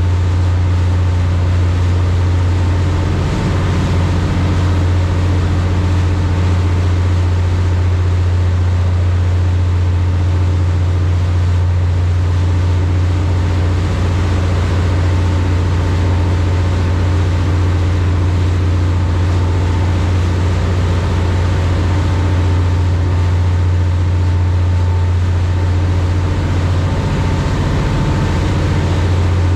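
High-speed passenger boat's engines droning steadily under way: a strong deep hum with a fainter steady higher tone above it.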